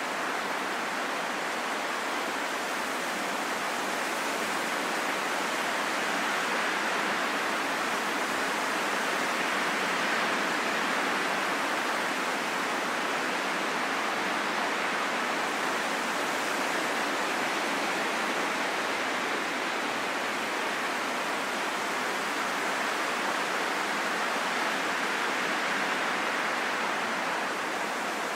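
Steady rain falling in a forest: a dense, even hiss with no single drops standing out.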